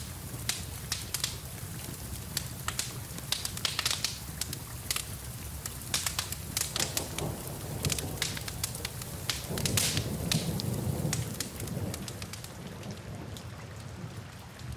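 Wood fire crackling with many sharp pops over steady rain. A low rumble swells from about seven seconds in and fades away by about twelve seconds.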